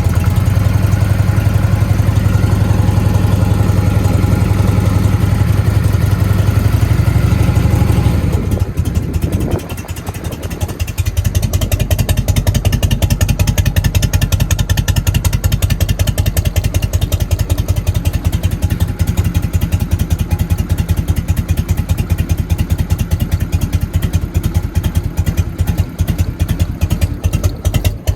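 Harley-Davidson Evolution V-twin idling through fishtail mufflers: it runs at a faster, steady idle for about eight seconds, then drops and settles into a slow, uneven, loping idle, the three-beat 'potato' rhythm set up with an aftermarket ignition kit.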